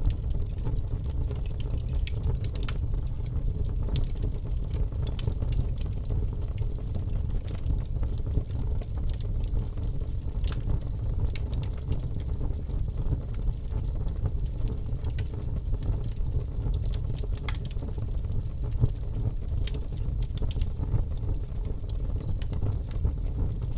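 Logs burning in a fireplace: a steady low rumble of flame with frequent irregular crackles and pops from the wood.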